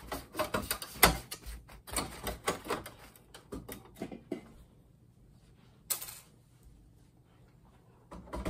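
Quick, irregular clicking and clattering of small hard parts being handled, dense for about four seconds and then dying away, with one more click near six seconds.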